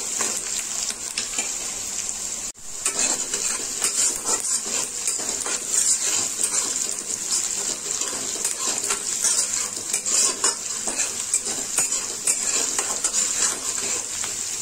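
Chopped onions sizzling in hot mustard oil in a steel kadhai, with a metal spatula scraping and clinking against the pan as they are stirred. The sound cuts out for a moment about two and a half seconds in.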